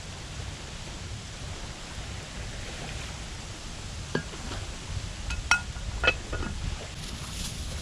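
A few light clinks, each with a short ringing tone, about four, five and a half and six seconds in, over a steady low rumble.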